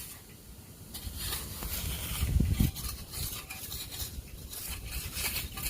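Dirt being dug and scraped with a digging tool, a series of short scrapes, with a brief low rumble about two and a half seconds in.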